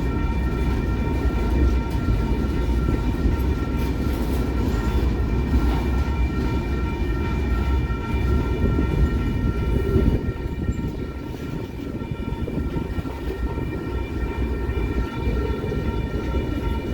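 A train rolling past, with a steady low rumble of wheels on rail and a steady high ringing tone held over it. The rumble eases a little just after the middle.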